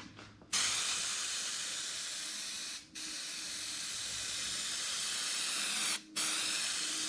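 Spray adhesive hissing out in three long passes, each a couple of seconds, with two short breaks, as the headliner board gets its second coat.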